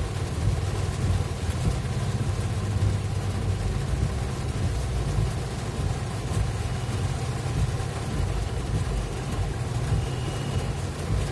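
Vehicle driving through heavy rain: a steady low rumble of engine and road noise under an even hiss of rain and wet tyres.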